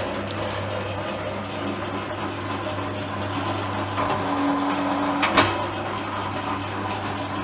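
An electric cable-stripping machine runs with a steady motor hum. About four seconds in, a higher tone joins for about a second, then ends in a sharp click.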